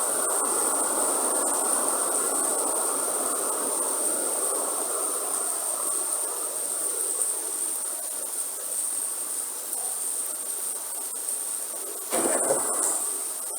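Rain falling in a rainforest, a dense even patter that eases in the second half, under a steady high-pitched insect drone. Near the end, a sudden louder rush lasts under a second.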